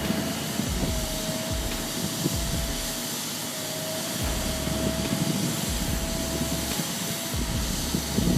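Heavy machinery running with a steady high whine over a low rumble that swells and fades.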